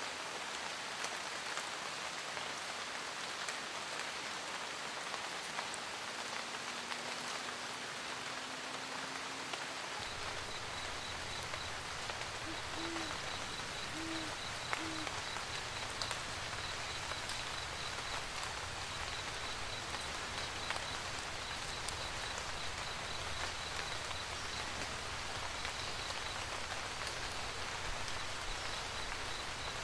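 Steady rain pattering, with an owl hooting three short times about halfway through. About a third of the way in, a low steady rumble joins the rain, and a faint, regular high-pitched chirping runs on under it.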